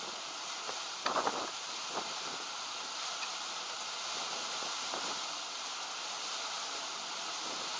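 Steady wind noise, with a quick cluster of small clicks or clinks about a second in and another single click a second later.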